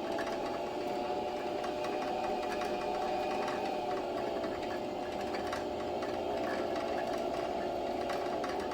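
Electric sewing machine motor running at a steady speed while winding thread onto the bobbin, with a light ticking over the hum.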